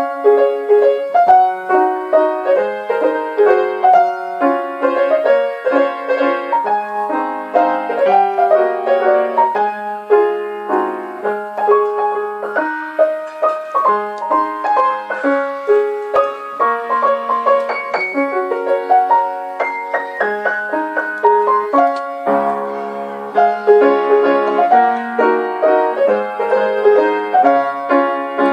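Background piano music: a flowing melody over chords.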